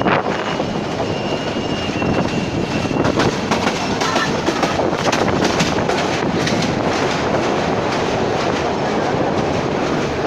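Train running along the track: a steady rumble and rattle of wheels on rails, with a run of rhythmic clicks from the rail joints midway.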